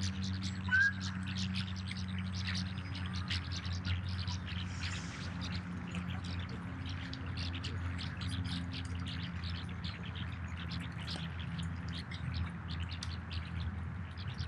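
Small birds chirping and twittering throughout, with a short rising whistle about a second in, over a steady low hum.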